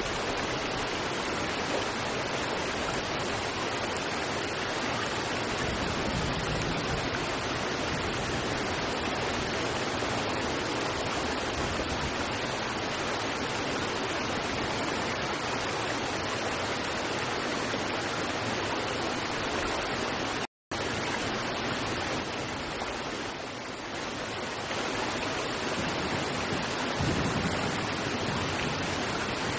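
River water flowing over rocks, a steady rushing. It cuts out abruptly for a split second about two-thirds of the way through, then carries on.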